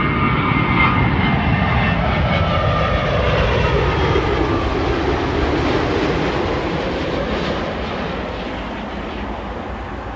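Jet airliner on final approach passing close by, its engine whine gliding down in pitch as it goes past, then fading away near the end.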